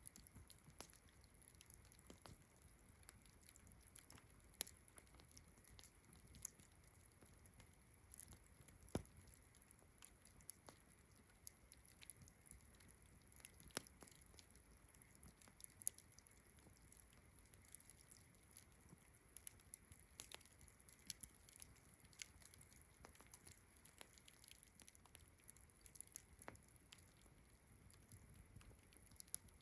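Campfire crackling with scattered sharp pops at irregular intervals, over a steady high-pitched background of crickets and distant frogs.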